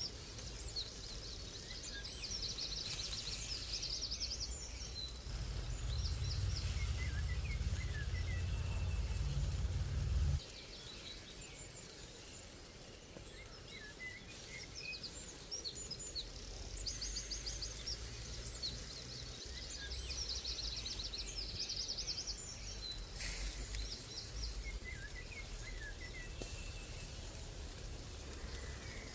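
Songbirds singing: repeated fast trilled phrases and scattered short chirps, over a low rumble that stops abruptly about ten seconds in.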